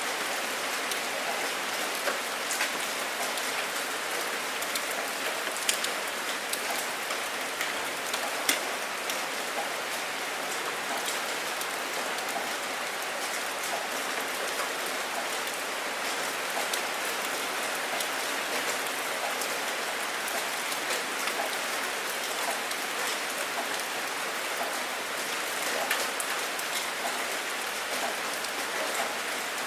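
Steady rain falling, an even hiss with individual drops ticking sharply on a surface now and then.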